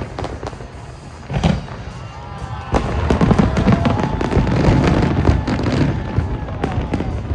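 Fireworks display: aerial shells bursting with scattered crackling, a heavy boom about a second and a half in, then a dense barrage of booms and crackles from about three seconds in.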